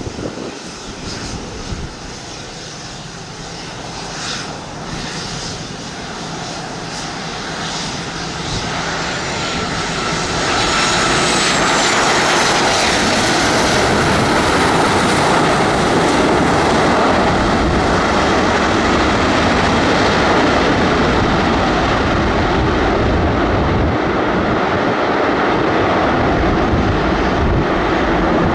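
A passenger airliner's engines grow louder over about ten seconds to a loud, steady rush of engine noise as the plane passes close. A whine sweeps down in pitch about ten seconds in.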